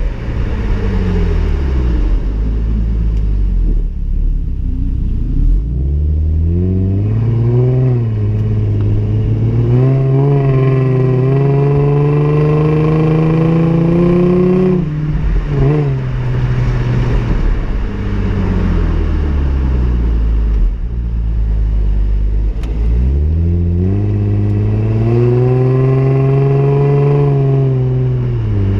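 2010 Hyundai Genesis Coupe's 3.8-litre V6 running through its stock exhaust, revving up and down in two long pulls. The pitch falls at first and sits low for a few seconds. It climbs steadily, with a brief dip along the way, and drops off sharply at its peak. After a low, steady spell it climbs again and falls away near the end.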